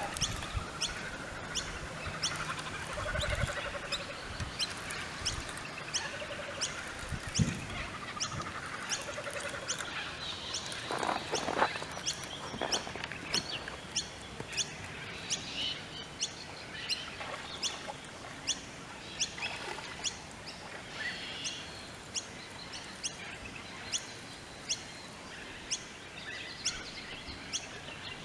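Birds singing and chirping, with warbling calls, over a steady run of sharp high ticks about twice a second.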